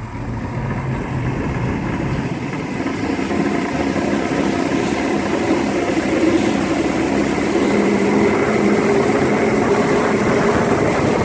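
Force 150 two-stroke outboard motor on a bass boat throttling up from low speed, rising in pitch and loudness over the first few seconds and then running steadily under way, with a growing rush of water and wind.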